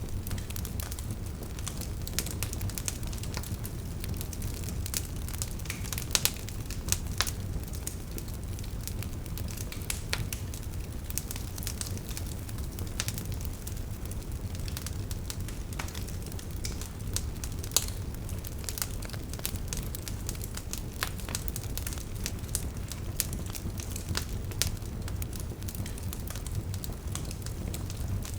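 Campfire burning, with irregular sharp crackles and pops from the wood over a steady low rumble of flame.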